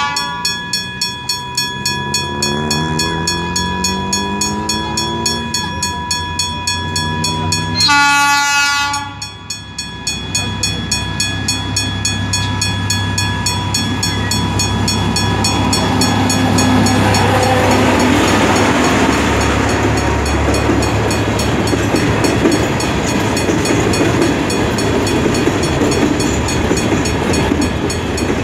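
Diesel locomotive hauling a freight train past, with an even clicking of wheels over rail joints, a short horn blast about eight seconds in, and then the steady rolling noise of the wagons passing.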